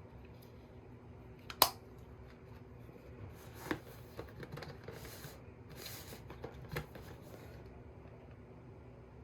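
Small objects being handled close by: a sharp click about a second and a half in, then a few softer clicks and short rustles, over a faint steady hum.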